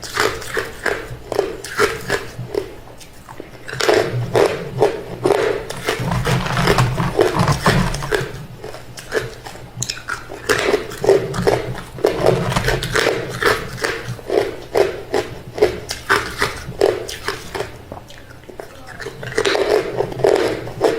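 A person biting and chewing hard refrozen crushed ice: rapid sharp crunches in runs, with brief lulls about three seconds in and near the end.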